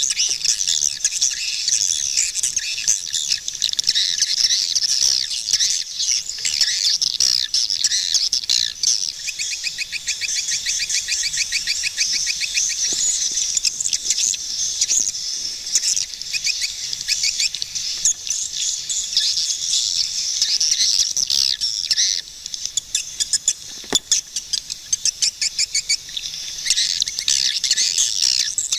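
Swiftlets calling: a dense, continuous chorus of high chirps and twitters. Fast trilling runs come about ten seconds in and again a little past twenty seconds.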